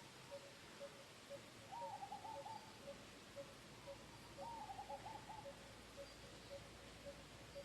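Faint bird calls: a short single note repeated steadily about twice a second, and two brief runs of quick, slightly falling higher notes about two and four and a half seconds in.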